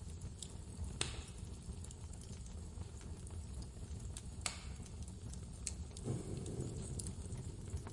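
Wood fire crackling in a fireplace, with sharp pops about a second in and again around four and a half seconds, over a steady low blizzard wind. A deeper low rumble swells up about six seconds in.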